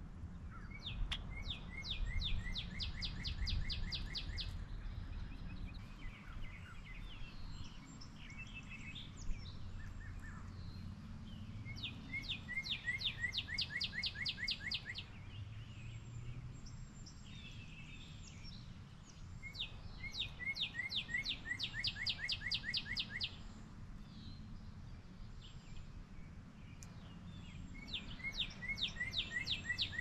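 A songbird sings the same quick run of about a dozen sharp, evenly spaced notes four times, roughly every eight seconds. Fainter calls from other birds fall in between, over a low steady background rumble.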